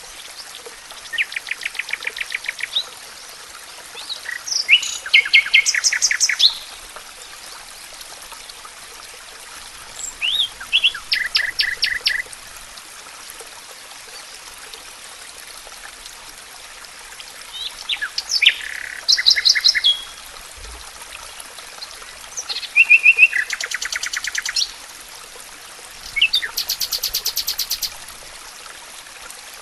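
A songbird singing six short trilled phrases, each a rapid run of evenly repeated notes lasting about two seconds, with pauses of a few seconds between them. A steady rush of running water sits underneath.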